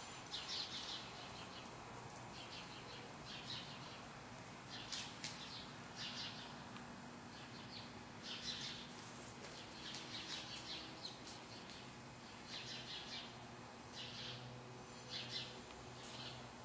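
Faint, irregular high-pitched chirping like small birds, over a low steady hum.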